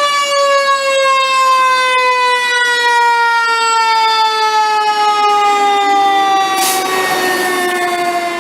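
Mechanical siren winding down, one long steady tone with a slowly falling pitch. A short burst of hiss cuts in near the end.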